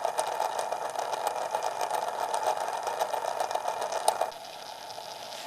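Kimball player piano E/F transmission running fully loaded with a brass gear, giving a steady whirring with rapid gear clatter. About four seconds in it drops off suddenly to a much fainter steady running sound.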